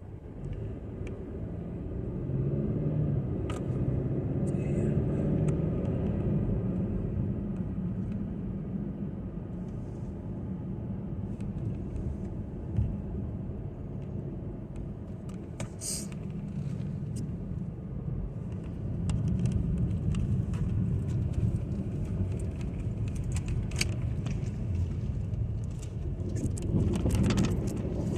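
Car driving, with a steady low rumble of road and engine noise heard from inside the cabin and scattered small clicks and rattles, one sharper click about halfway through.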